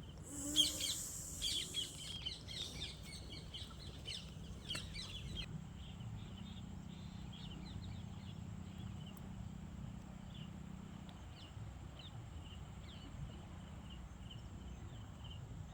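Birds chirping and calling, busiest in the first five seconds, with a louder harsh call about half a second in; after that, faint chirps keep repeating over a low steady hum.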